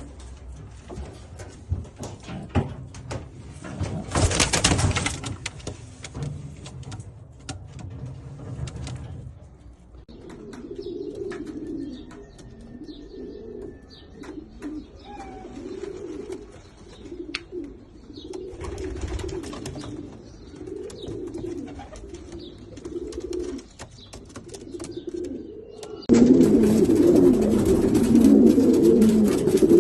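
Domestic racing pigeons cooing over and over in low repeated phrases, growing much louder and denser near the end. In the first seconds there are rustles and knocks, with a brief loud burst of noise about four seconds in.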